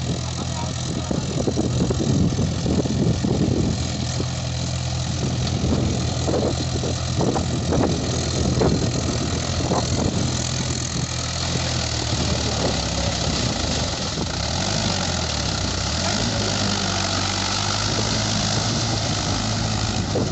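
Tractor diesel engine running steadily, with irregular sharp noises over the first ten seconds or so and a slight shift in the engine note about fifteen seconds in.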